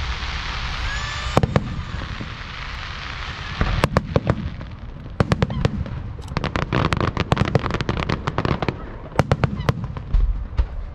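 Aerial fireworks bursting: a hissing crackle at first, then volleys of sharp bangs in quick clusters, most densely from about four to ten seconds in.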